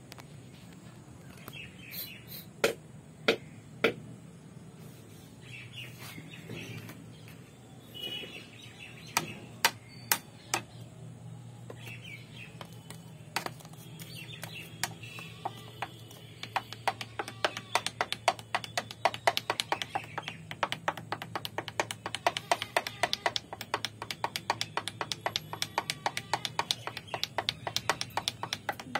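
Birds chirping in the background. There are a few sharp taps in the first half, then a fast, steady run of clicks, several a second, from about halfway on.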